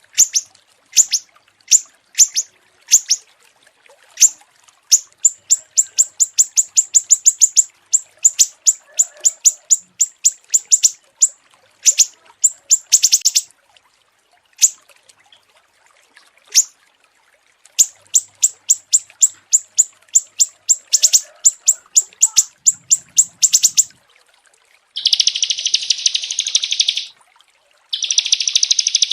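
Small songbirds calling in a masteran (bird-song training) mix: fast runs of sharp, high whistled notes that each sweep downward, repeated several times a second in bursts. Near the end come two dense buzzy trills, each about two seconds long.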